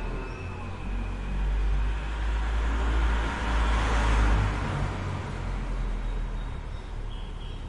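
Road traffic noise: a vehicle passing, with a low rumble and a broad rush that swells to its loudest about four seconds in, then fades.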